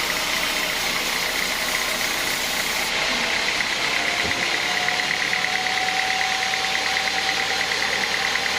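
Sawmill machinery running with a steady loud mechanical noise and a high whine; a second tone rises slightly in pitch a few seconds in.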